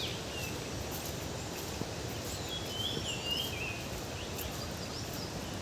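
Wild birds calling: a short falling whistle at the start, then a high warbling phrase about two to three seconds in, over a steady rushing background noise.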